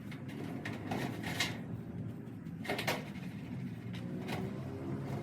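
Several sharp knocks and clanks, about four or five, over a steady low hum.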